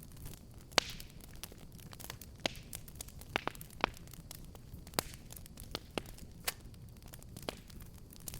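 Wood fire burning in a fireplace, irregular sharp crackles and pops over a low, steady rumble of flame.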